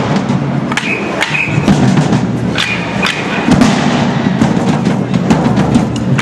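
Band music with drums, many sharp percussive hits over a steady low-pitched backing.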